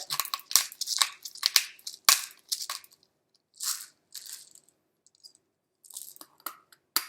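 Black pepper being shaken out of its container over frozen chicken nuggets: a quick run of sharp taps and rattles for about three seconds, then a few softer shakes and a final click.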